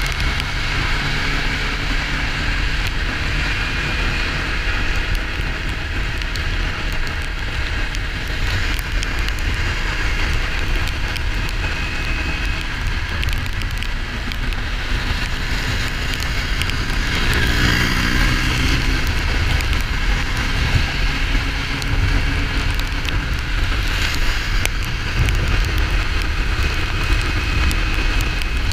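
Riding-along sound of a Kawasaki Ninja 400 motorcycle: the parallel-twin engine running under a steady, heavy wind rumble and road hiss. A pitched sound swells and fades about two-thirds of the way through.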